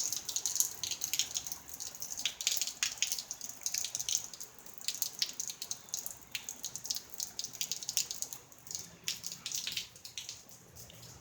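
Heavy rain falling, with many sharp drops splashing close by in an irregular patter; it thins a little near the end.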